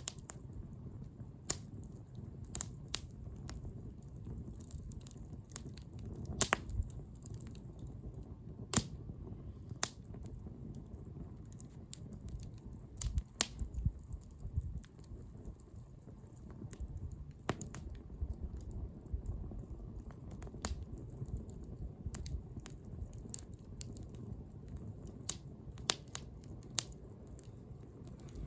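Wood bonfire burning: irregular sharp crackles and pops of the burning wood over a steady low rumble.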